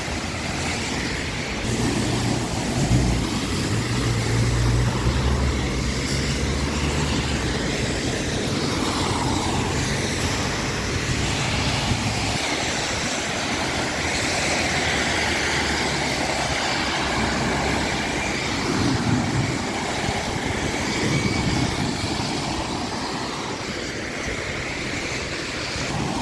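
Steady city traffic noise, with a heavy vehicle's low engine rumble over the first half that cuts off suddenly about halfway through.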